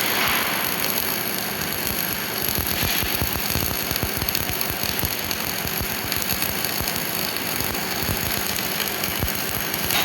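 MIG welding arc crackling steadily, a dense rapid sputter with no steady tone.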